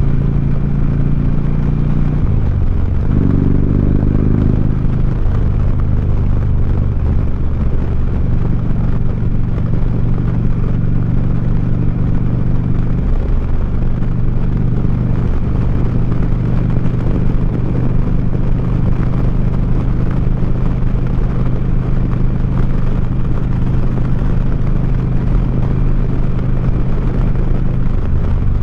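2009 Harley-Davidson Street Glide's V-twin running through 4.5-inch Sharkroad exhaust while riding. The engine note changes pitch a few seconds in, then holds steady at cruising speed.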